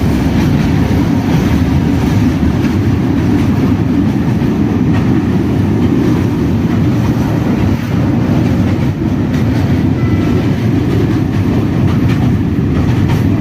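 Passenger train running on the track: a steady, loud rumble of wheels on rails.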